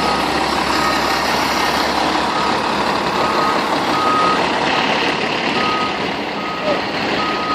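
Fire engine's reverse alarm beeping over and over, with the truck's engine running underneath as the rig backs into the firehouse.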